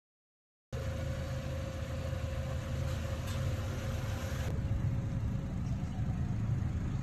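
A moment of dead silence, then a Toyota Corolla Altis engine idling steadily.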